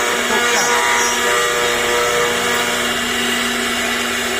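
CNC router spindle running steadily while carving, a constant high whine over the hiss of the bit cutting.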